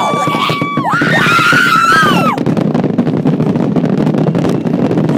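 Two high-pitched held "woo" cheers, each sliding up at the start and down at the end, the second wavering; the second stops about two and a half seconds in. After that, a steady low rumble of crowd and outdoor noise with scattered crackles.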